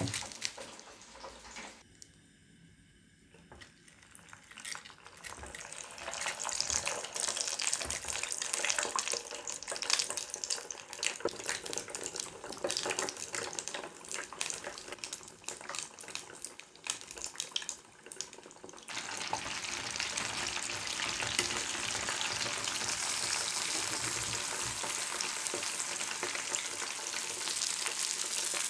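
Breaded chicken legs deep-frying in hot oil, a dense crackling sizzle full of small pops. It is quiet for the first few seconds, builds up, and turns into a steadier, fuller sizzle about two-thirds of the way through.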